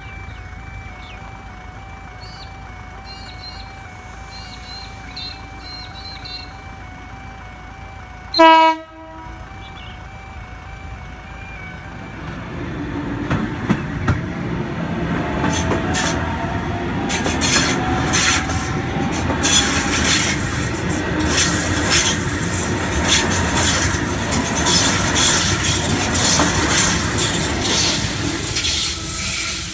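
Level crossing warning bells ringing in a steady repeating pattern, and a Sydney Trains Waratah electric train sounding one short horn blast about eight seconds in, the loudest sound. From about twelve seconds the train pulls away and passes close by: wheels clattering over the rail joints, with a rising motor whine as it speeds up.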